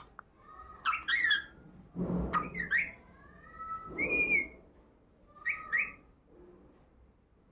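Pet parrot whistling and calling in about four short bursts, each sliding up and down in pitch, with short pauses between.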